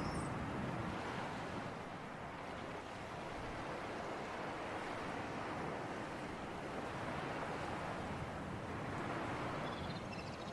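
Sea surf and breeze: a steady wash of noise that swells and eases slightly, with a few faint high chirps near the end.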